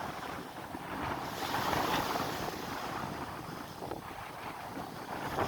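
Sea breeze buffeting the microphone, with surf washing on the shore, swelling about two seconds in and again near the end.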